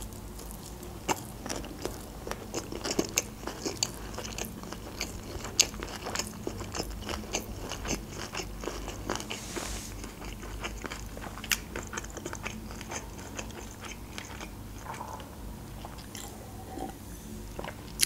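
Close-miked chewing of sushi rolls: a steady run of small wet mouth clicks, with a few sharper clicks standing out.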